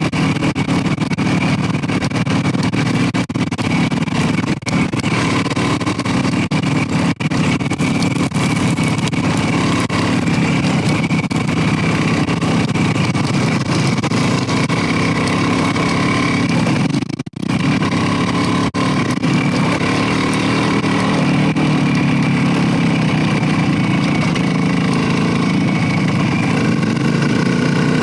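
Motorcycle engine running steadily while riding, its pitch rising near the end as it revs up.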